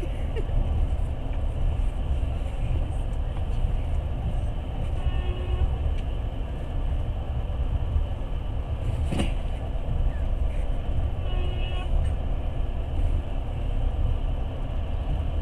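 Passenger train running, heard from inside the carriage: a steady low rumble of wheels and running gear, with a single sharp knock about nine seconds in.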